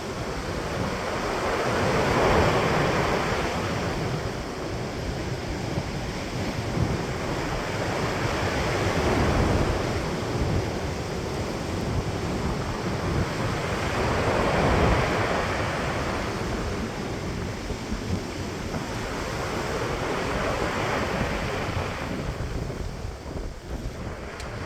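Sea waves breaking and washing on the shore, surging louder about three times, with strong wind rumbling on the microphone throughout.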